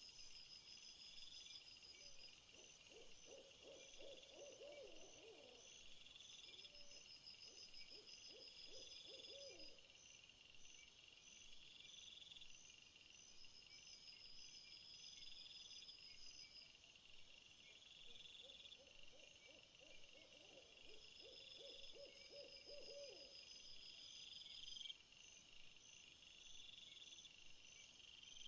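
Faint night-time nature ambience: insects chirping in a steady repeating chorus, high-pitched. Twice, a lower animal call comes through as a run of quick pulses lasting a few seconds.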